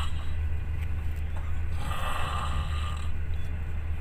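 Steady low rumble of a train running, heard from inside the carriage, with a short hissing rush about halfway through.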